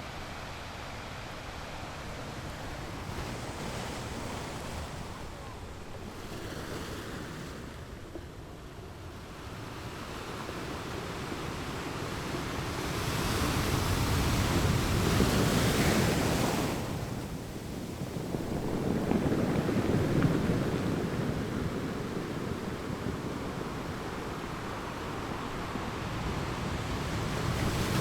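Ocean waves breaking on rocks, the surf swelling and ebbing, with two big surges in the second half, and wind on the microphone.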